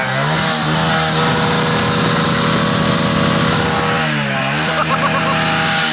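Motorcycle engine running after being started, its speed dipping and picking up again about four seconds in.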